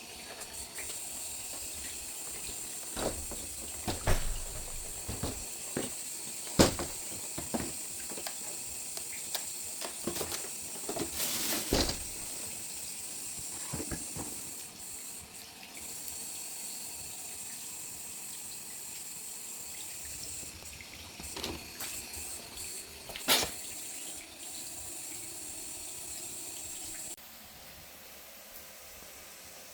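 Firewood burning in a traditional agungi fire hole: a steady hiss with scattered sharp crackles and pops, the hiss dropping lower near the end.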